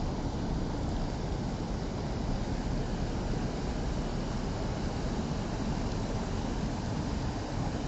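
Running water: a steady, unbroken rush.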